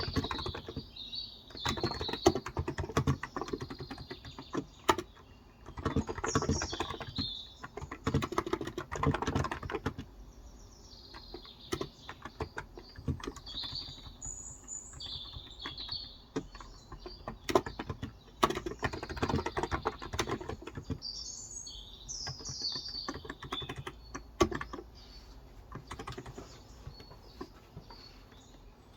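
Typing on a Cox Endeavor electro-capacitive (Topre-style) tenkeyless keyboard with 35 g switches: bursts of rapid keystrokes broken by short pauses. Small birds chirp throughout.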